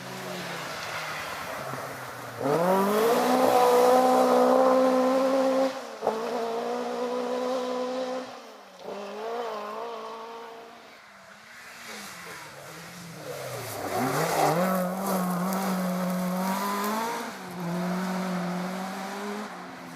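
Rally car engine revving hard: it climbs sharply about two seconds in and holds at high revs, drops at a lift or gear change around six seconds, wavers, then revs up again around fourteen seconds and holds high before easing off near the end.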